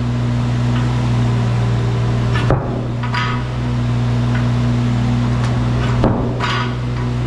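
Wacker Neuson mini excavator's diesel engine running steadily, with two sharp metallic clanks that ring briefly, about two and a half seconds in and again near six seconds.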